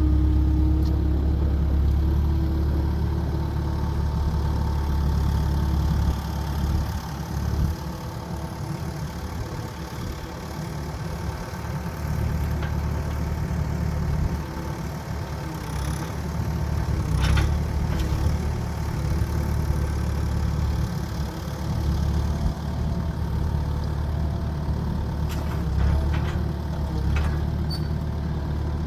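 A large engine running steadily with a deep rumble, with a few sharp clicks and knocks about seventeen seconds in and again near the end.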